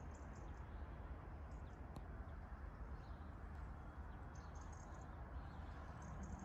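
Small birds chirping in short high runs of chirps that come every second or two, over a steady low rumble.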